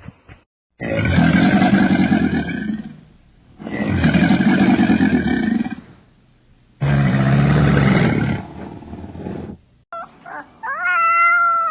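A large animal gives three long, deep calls, each about two and a half seconds long, with short pauses between them. Near the end a different, higher call with a wavering pitch begins.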